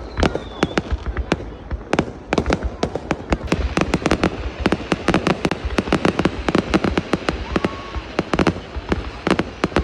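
New Year's Eve fireworks going off in a dense barrage of sharp bangs and crackles, several every second, with no let-up.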